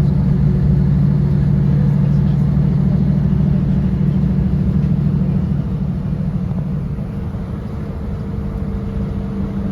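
Class 156 Sprinter diesel multiple unit's underfloor Cummins diesel engine running under power with a steady low drone, easing off a little about halfway through.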